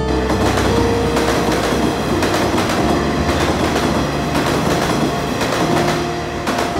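Nishitetsu electric commuter train passing close by at speed over a level crossing, its wheels clattering over the rail joints.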